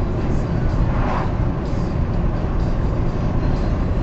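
Steady road and engine noise of a car cruising on a highway, heard from inside the cabin as a constant low rumble.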